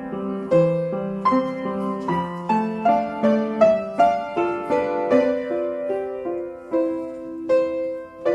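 Piano playing slow accompaniment for a ballet barre plié exercise, with notes and chords struck in an even, unhurried pulse.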